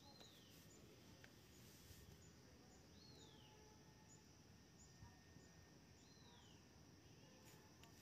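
Near silence with faint outdoor ambience, in which a bird gives a short falling whistle three times, about three seconds apart.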